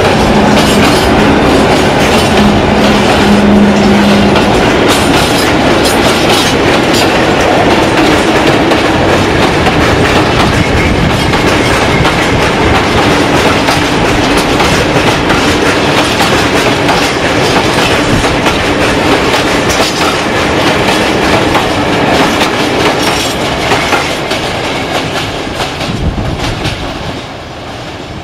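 A freight train's box wagons and tank wagons rolling past, their wheels clattering steadily over rail joints and points. The clatter fades over the last couple of seconds as the train draws away.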